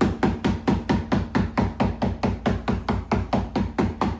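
Soft mallet tapping a water-softened trim piece onto the edge of a car's soft-top hood. It strikes rapidly and evenly, about four knocks a second.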